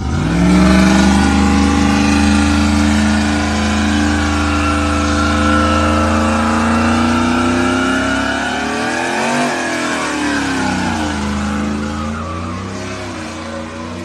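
Truck engine revved hard and held at high revs, with tires squealing as in a donut. The revs swing down and back about nine seconds in, then settle lower.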